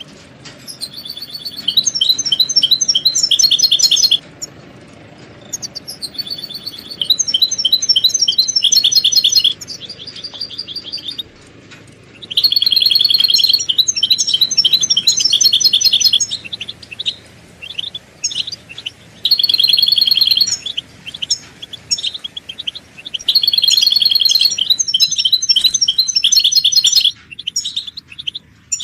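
European goldfinches twittering: bouts of rapid, repeated high chattering notes, each a few seconds long, with short pauses between them. These are excited goldfinch calls of the kind used to stir male goldfinches into song.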